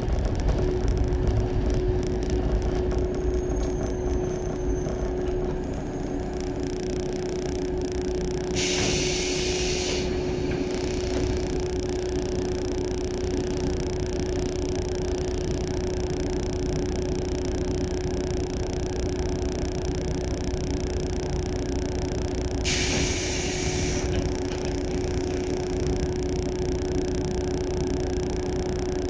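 JR 115 series electric train running, heard inside the passenger car: a steady rumble of wheels on rail under a constant hum. Two short bursts of hiss come about 9 and 23 seconds in.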